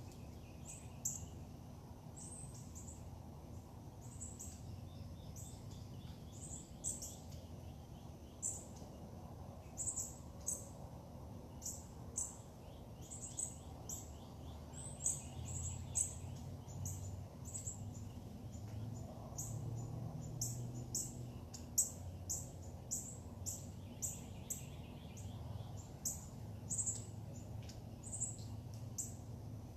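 Birds chirping: short, high notes, each dropping quickly in pitch, repeated irregularly about once or twice a second over a steady low hum.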